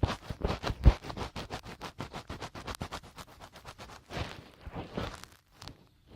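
Fingertips scratching and rubbing in and around an ASMR microphone's ear in a finger ear-cleaning, a fast, irregular run of crackling scratches, turning to a couple of softer brushing strokes near the end.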